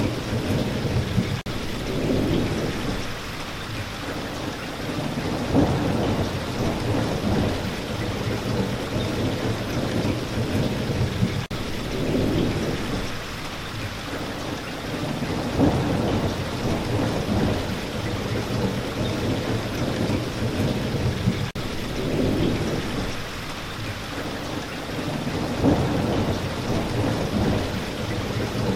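Steady heavy spring rain with thunder rumbling under it. The rumbles swell and fade every few seconds, and the whole pattern repeats about every ten seconds.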